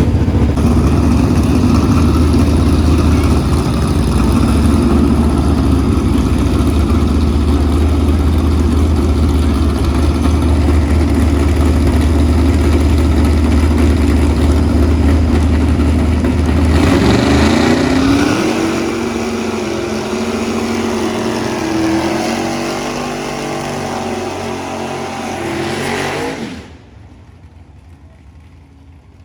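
Car engines running loudly and steadily. About seventeen seconds in, an engine revs up with its pitch rising in stages over several seconds. Near the end the sound drops abruptly to a much quieter background.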